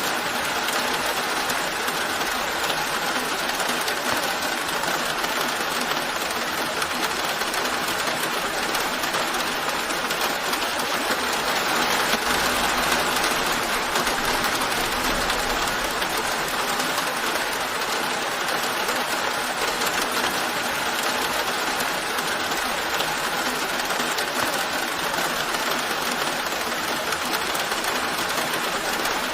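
Steady rain falling, an even hiss that holds at one level without pause.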